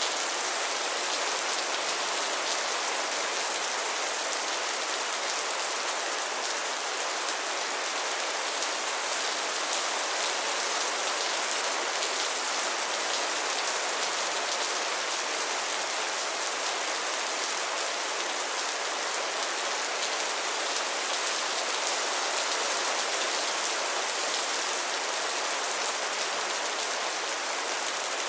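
Steady rain falling, an even hiss with fine pattering of drops on a surface, unchanging throughout.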